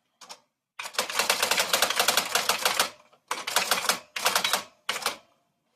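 Typewriter being typed on in fast bursts of rapid key strikes. There is one long run in the first half, then several shorter runs separated by brief pauses.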